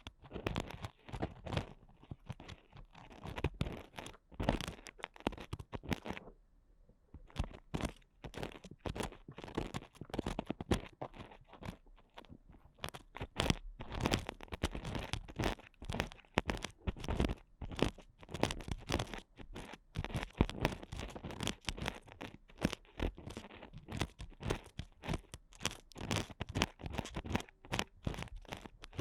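Ear picks scraping and scratching hard inside an ASMR microphone's ear, a dense run of quick crackly scrapes, with a brief pause about six seconds in.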